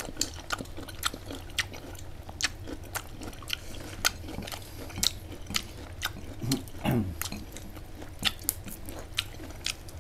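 A person chewing and crunching food close to the microphone, with many sharp, irregular clicks of bites and mouth sounds. About two-thirds of the way in there is a brief hum from the eater.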